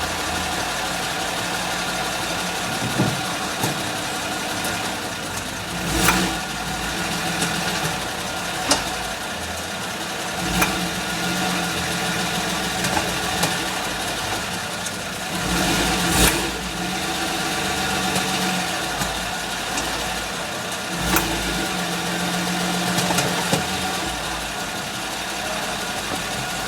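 Suzuki Grand Vitara with its engine running steadily, and sharp clicks coming at irregular intervals, from under a second to several seconds apart. The clicking is the fault being shown, cause unknown.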